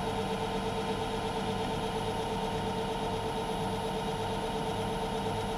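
Myford lathe running steadily: a constant motor hum with one steady mid-pitched tone over a low hum that swells and fades at an even pace.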